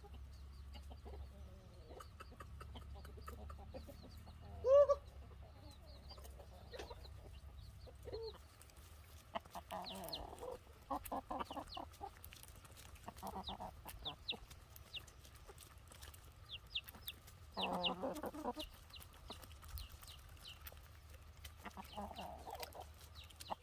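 Chickens clucking, with one loud short call about five seconds in and several bursts of clucking later on.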